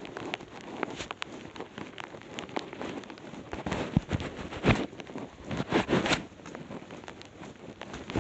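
Heavy rain falling, with many sharp drops tapping close to the microphone and a few louder clusters of knocks about halfway through.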